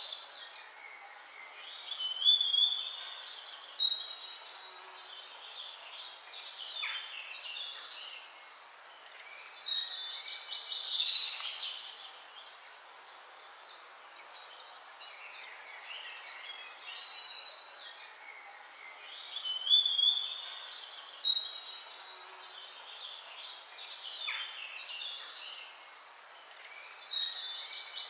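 Birds singing: bursts of chirping, trilling song about every eight seconds, with quieter calls between them over a steady background hiss.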